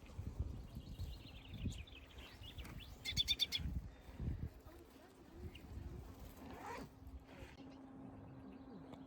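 Small birds chirping, with a quick run of sharp notes about three seconds in, over a low rumble. A steady low hum comes in near the end.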